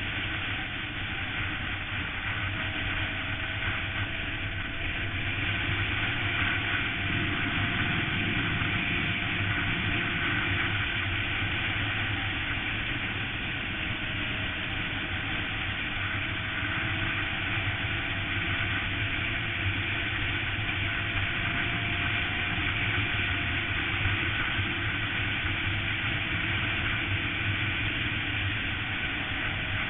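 Suzuki GSX-R sport bike running steadily at highway speed, its engine note drifting slightly up and down under a constant rush of noise.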